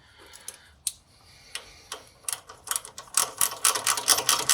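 Ratchet wrench clicking as an engine mount bolt is run in. A few scattered clicks come first, then fast, even clicking, several a second, starts about two seconds in and grows louder.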